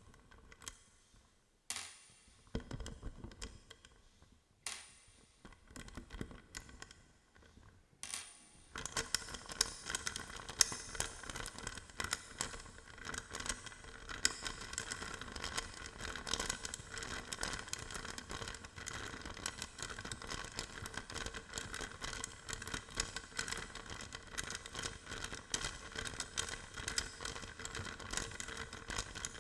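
Hodo balls clacking together: a few separate clacks with a bright ring at first, then, from about nine seconds in, a continuous rolling rattle of fast clicks with a steady ringing tone underneath.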